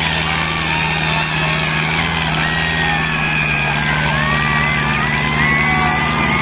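Diesel tractor engines running steadily under load in a tractor tug-of-war, with thin wavering high-pitched tones above them.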